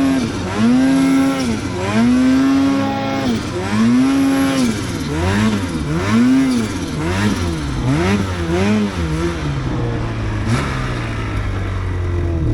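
Two-stroke snowmobile engine revved up and down over and over, first about once a second, then in quicker, shorter blips, settling to a steadier lower run near the end.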